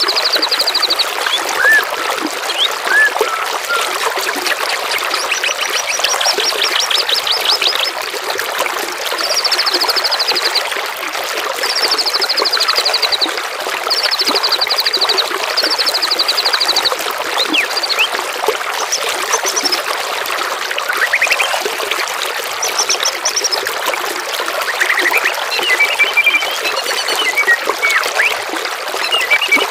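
Steady trickling of running water with songbirds over it: short rapid high trills, each a second or two long, repeated about every two seconds through the first half, then scattered short whistles and chirps near the end.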